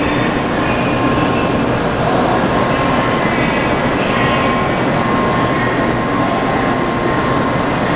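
N700 series 7000 subseries shinkansen train departing a station platform: steady, loud train noise with a few faint high tones held over it.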